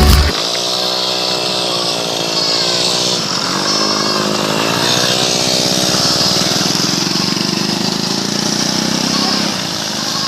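A small engine running, its pitch slowly rising and falling, over a steady rushing hiss.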